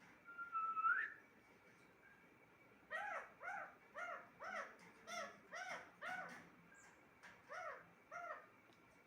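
Pet parrot whistling: one rising whistle, then a run of about ten short, arching calls, about two a second.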